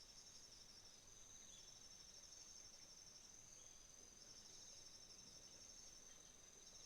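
Faint chorus of autumn insects: a steady high-pitched trill overlaid by several pulsed trills that stop and start, over a soft outdoor background hiss.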